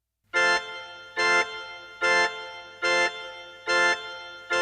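Instrumental intro of a rock song: a keyboard with an organ-like tone strikes the same chord over and over, a little more than once a second, each chord held briefly and then fading, over a low steady hum.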